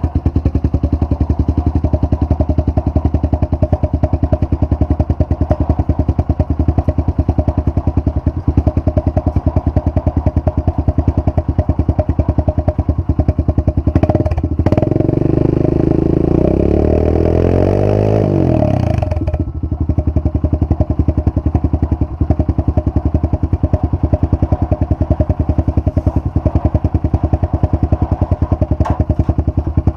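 Honda CRF125F dirt bike's single-cylinder four-stroke engine idling steadily, revved up once about fourteen seconds in, its pitch climbing for some four seconds before it drops back to idle.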